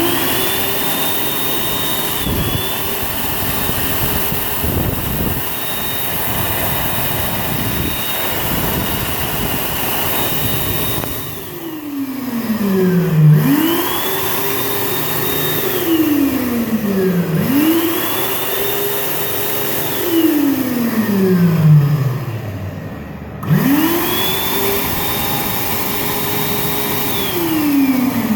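Electric air dryer's fan motor switched on and off repeatedly, with a rush of blown air. Each time it spins up with a rising whine, runs steadily, then winds down with a falling pitch. The first run lasts about eleven seconds and the later ones are shorter.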